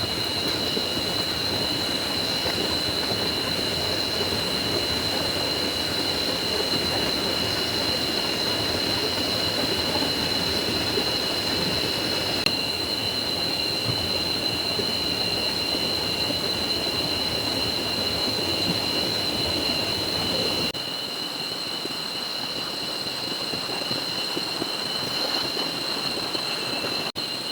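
Rain-swollen forest stream rushing steadily, with a continuous high-pitched whine on top. About two-thirds of the way through, the water drops abruptly to a quieter, thinner rush.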